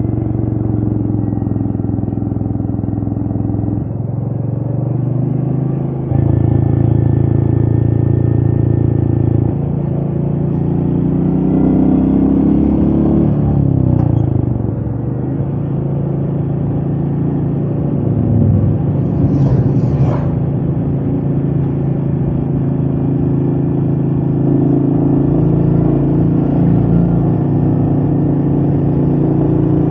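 Royal Enfield Meteor 350's single-cylinder engine running under way, its note changing step by step a few times in the first ten seconds and revs rising and then falling about halfway through.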